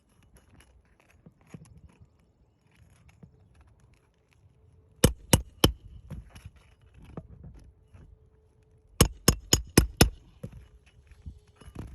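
Hand tool striking on an asphalt shingle roof during a shingle repair, such as a hammer working the nails out from under the shingles: three sharp quick blows about five seconds in, then a run of five more about four seconds later, with faint scraping and tapping between.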